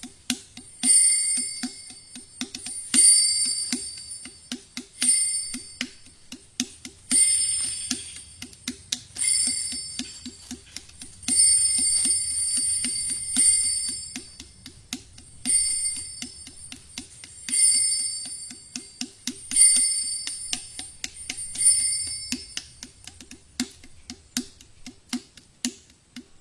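A small high-pitched metal bell struck about every two seconds, each strike ringing for about a second, over a quick, steady run of soft low clicks. The strikes stop a little before the end.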